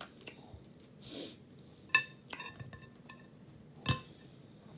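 Mussel shells clinking against a dish as they are lifted out and set aside. There are several sharp clinks that ring briefly, the loudest about four seconds in and another about two seconds in, with a short soft rustle a second in.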